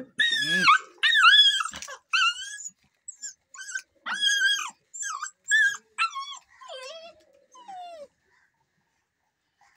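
A dog, likely a puppy, whining and yelping in a run of about ten high-pitched cries, loud at first and growing fainter, the last two falling in pitch.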